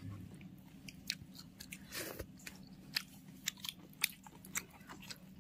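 A person chewing food close to the microphone: a run of soft, irregular mouth clicks and smacks.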